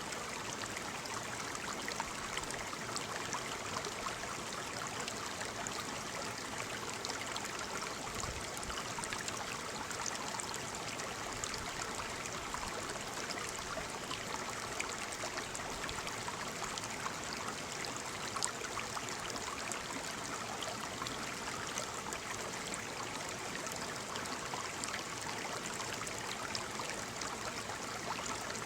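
Waterfall: water falling and splashing steadily, an even, unbroken rushing noise with no change in level.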